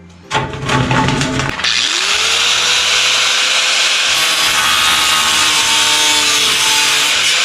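Electric power saw cutting wood. A short rough burst of sound comes first, then the motor whines up to speed about two seconds in and the saw runs steadily through the cut.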